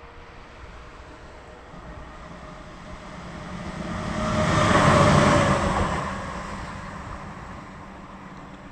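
A vehicle passing close by: its noise builds up, peaks about five seconds in, then fades away.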